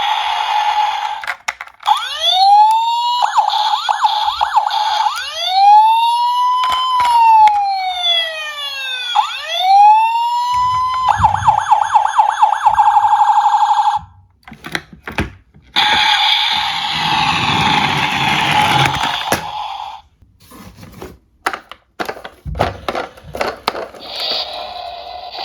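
Electronic police siren sounds: rising and falling wails with some quicker yelps, then a fast warble for a few seconds. Scattered clicks and knocks follow near the end.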